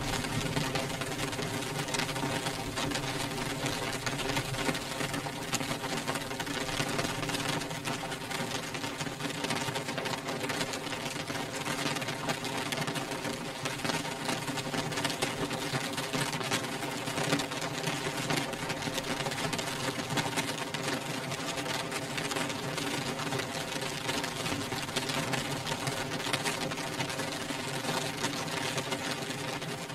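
Rain beating on a glass window pane: a dense, steady patter of drops, with a steady low hum of several tones underneath.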